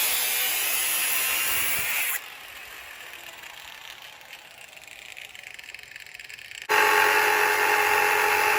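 Electric power tool running on metal in three spliced clips: a loud hissing burst for about two seconds, a quieter stretch, then a loud steady whine with fixed tones from about seven seconds in.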